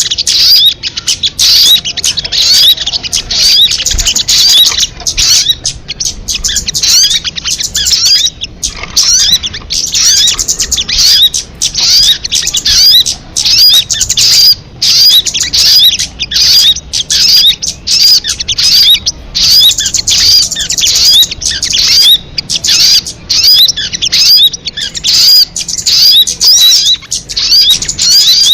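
Recorded song of a sogon bird: rapid high chirps delivered in bursts of about a second, separated by short pauses and repeating over and over.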